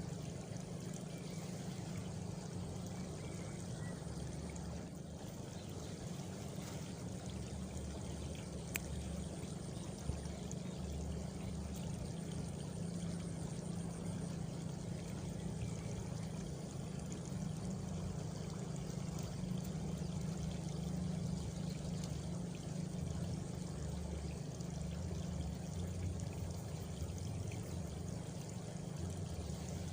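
Steady flowing water, even and unbroken. A faint high insect trill, typical of crickets, comes in for a few seconds near the middle.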